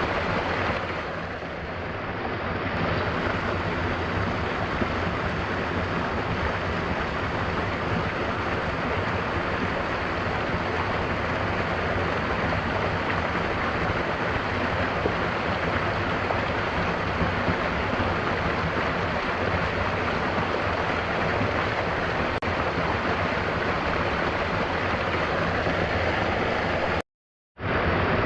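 Mountain waterfall: a steady, dense rush of falling water. The sound drops out completely for about half a second near the end.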